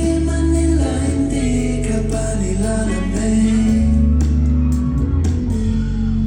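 A live band playing a pop song, with a voice singing over it.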